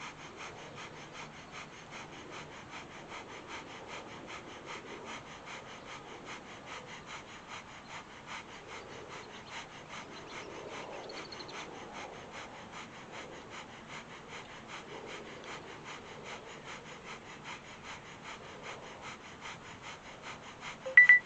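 Rapid, rhythmic breathing through the nose, about three short breaths a second, kept up steadily: Kundalini yoga's breath of fire.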